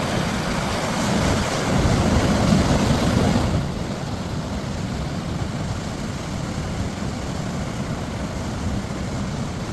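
Wind buffeting the camera microphone as a rumbling rush of noise, louder for the first three and a half seconds and then easing to a steadier level.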